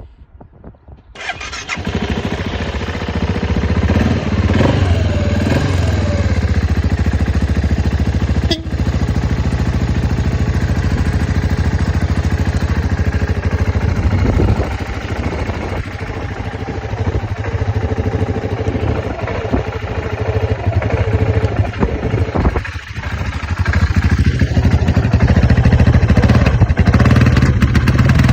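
Husqvarna TR650 Terra motorcycle engine starting: the starter cranks briefly, the engine catches about a second in, then runs steadily. Its revs rise and fall a few times, and it runs louder near the end.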